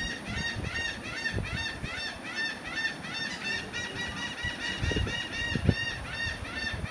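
A large flock of seagulls calling over one another in a dense, unbroken chorus of short, arched squawks, several a second. A few dull low thumps come near the end.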